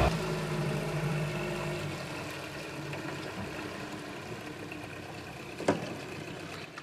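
An engine running steadily, fading away over the first couple of seconds and leaving faint background noise, with a single sharp click near the end.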